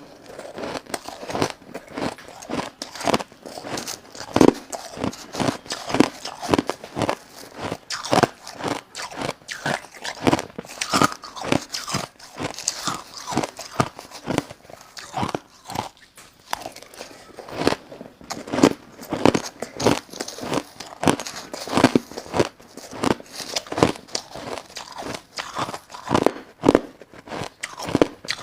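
A person biting and chewing crushed ice close to the microphone: an irregular run of sharp, crisp crunches, a few each second, with softer chewing between bites.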